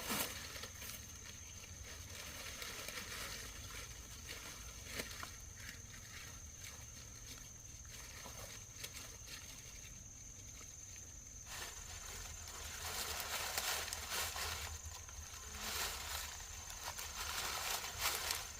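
Dry corn stalks and leaves rustling and crackling as a bundle is handled and tied, in uneven bursts that grow louder in the second half.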